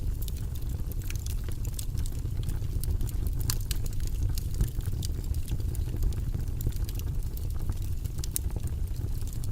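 Wood fire burning in a fireplace: a steady low rumble of flames with frequent small crackles and pops, a couple of sharper pops about three and a half and eight and a half seconds in.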